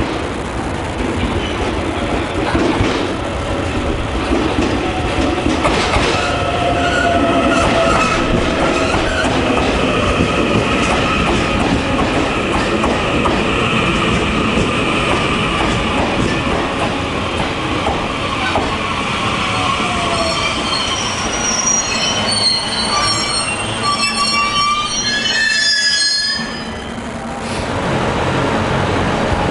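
The Shiki-shima luxury cruise train pulling into the platform and running close past, a steady rumble with some whining tones. From about two-thirds of the way in come shrill, high squeals as it brakes to a stop.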